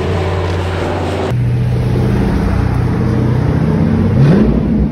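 Ford Mustang engines running, in edited clips: a steady engine and exhaust note that changes abruptly about a second in, then rises in pitch near the end as the car accelerates.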